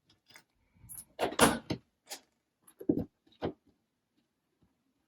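A few short clatters and rustles of small ball bearings and car parts being handled, the largest cluster about a second in, then smaller ones and a quiet stretch near the end.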